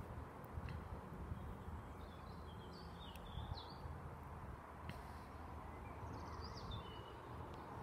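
Birds chirping in two short bursts of quick trills, about three seconds in and again near the end, over a low steady background rumble.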